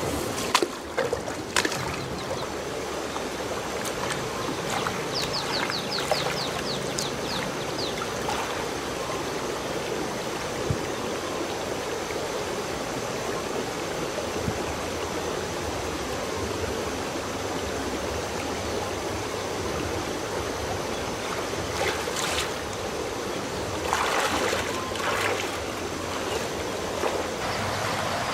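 Water of a stream running, a steady rush with some trickling. It is broken by a few sharp clicks near the start and a quick run of high chirps a few seconds in.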